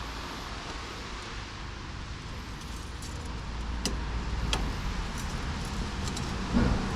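Car running with a steady low rumble, with a few sharp clicks about four seconds in and a thump near the end.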